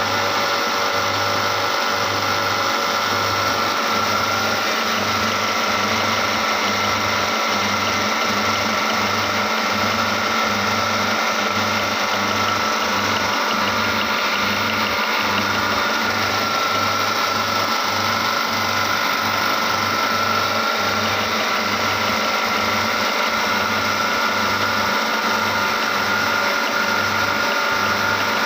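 Electric meat grinder motor running steadily with a constant whine and a low throb that pulses about one and a half times a second.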